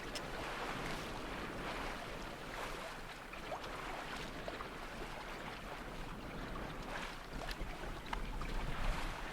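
Wind buffeting the microphone and water washing along the hull of a small sailing yacht under way: a steady, even rush with a low rumble underneath.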